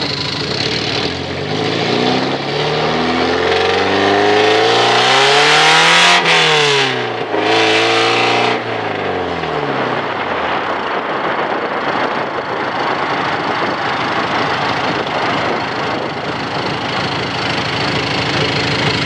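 Straight-piped 1983 Porsche 944 four-cylinder engine, its catalytic converter and muffler removed, accelerating: the revs climb for several seconds, break at a gear change about six seconds in, climb again briefly, then fall away. After that comes a steady rush of engine and road noise.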